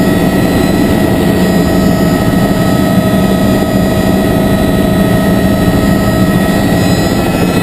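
Helicopter running steadily: the fast, even beat of the rotor blades under a constant turbine hum with a steady high whine.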